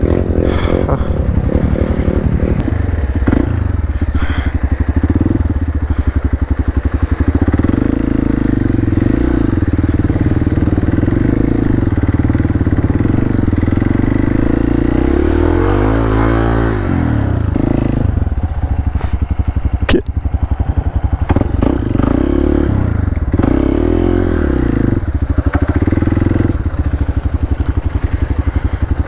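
Hero Xpulse 200 single-cylinder motorcycle engine running loudly under load in deep mud, its revs rising and falling, dipping and climbing back about halfway through. A sharp click is heard near the end.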